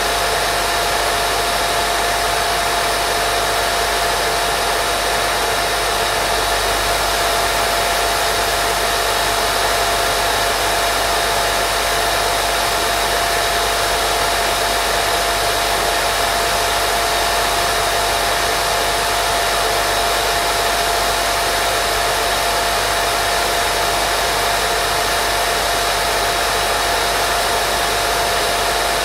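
Steady white noise for baby sleep: an unchanging hiss with a faint steady hum-like tone running through it.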